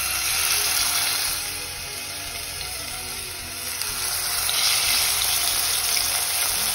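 Marinated chicken sizzling in hot olive oil in a frying pan: a steady, dense hiss that eases a little a couple of seconds in, then builds again.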